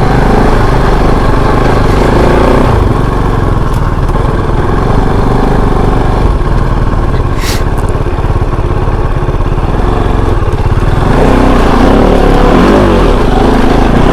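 Kove 450 Rally's single-cylinder engine running steadily as the motorcycle is ridden, its pitch wavering up and down near the end. A short hiss sounds about halfway through.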